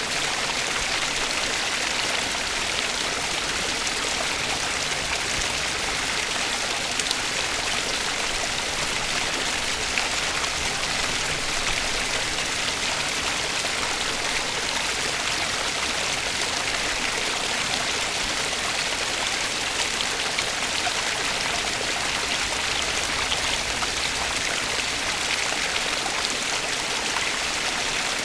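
Stream water flowing in a steady, even rush, with no change throughout.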